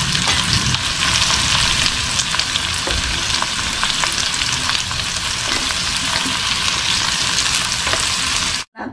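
Bacon-wrapped enoki mushroom bundles sizzling in a little oil in a nonstick wok: a steady, dense crackle with scattered small pops. It cuts off suddenly near the end.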